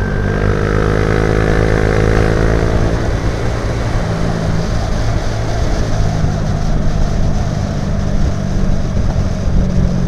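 Motorcycle engine running steadily while riding, with wind rushing over the microphone. A higher whine fades out about three seconds in.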